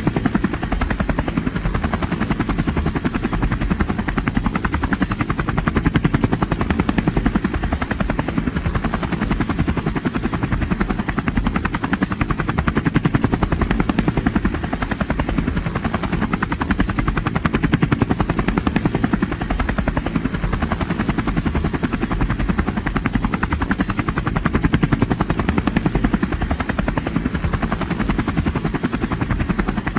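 A steady, rapidly pulsing mechanical whir at an even level.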